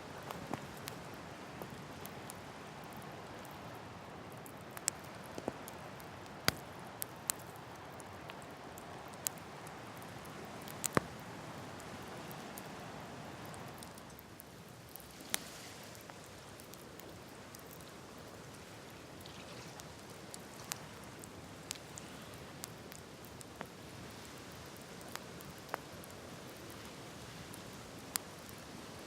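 Wood campfire crackling: sharp, irregular pops and snaps over a steady soft hiss.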